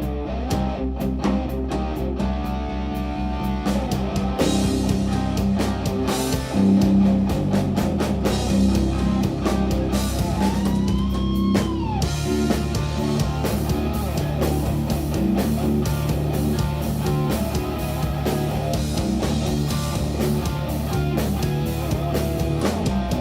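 Live instrumental jazz-rock fusion from an electric guitar, bass and drum kit trio. About ten seconds in, the guitar bends a high note up and back down.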